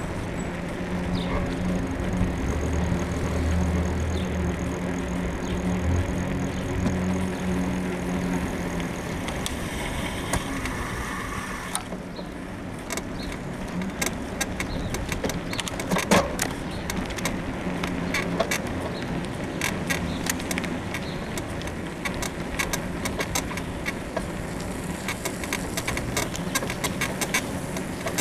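A bicycle's frame suspension creaking and clicking irregularly as it is ridden, which the rider puts down to a worn suspension bushing. For the first ten seconds or so a vehicle's steady engine hum runs underneath and then fades out.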